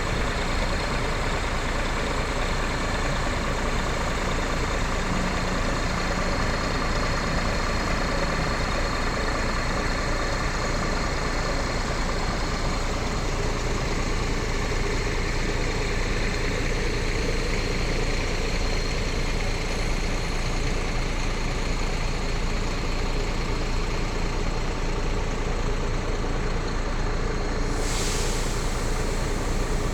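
A vehicle engine running steadily and unchanging, with a constant thin high whine over it and a short hiss near the end.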